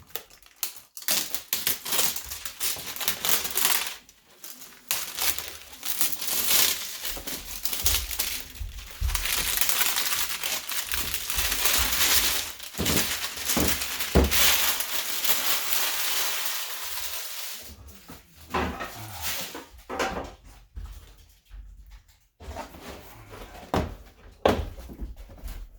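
A gift package being unpacked: cardboard and packing material rustling, crinkling and tearing, with scattered knocks. The rustling is densest through the middle and thins to a few knocks near the end.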